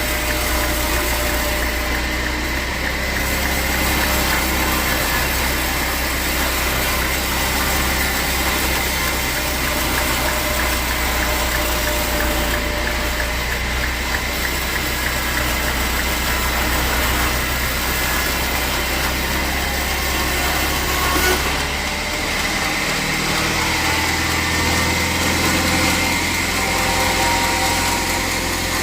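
Sawmill machinery running steadily: a constant motor hum under a noisy whir, its low note shifting a little about three-quarters of the way through.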